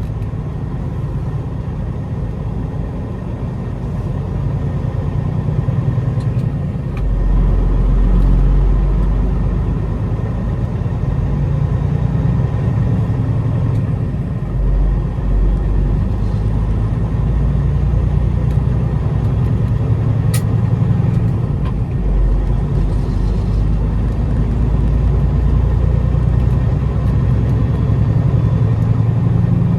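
Peterbilt semi truck's diesel engine running as the truck drives, a steady low rumble that gets stronger about seven seconds in.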